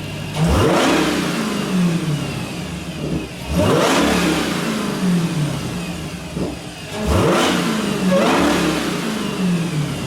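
Dodge Challenger SRT's supercharged 6.2 HEMI V8, breathing through its stock air filter, revved hard three times. Each time the pitch climbs sharply and then falls away.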